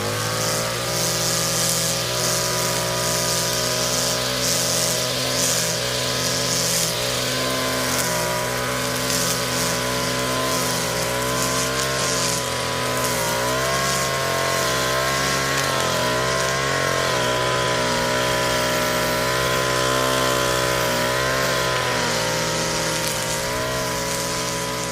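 Lawn mower engine sound effect from a video editor's library, standing in for the real audio: a small engine running steadily, its pitch wavering slightly, tailing off near the end.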